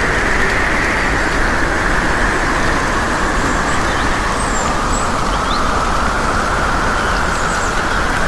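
Steady rushing noise of a storm, wind and rain.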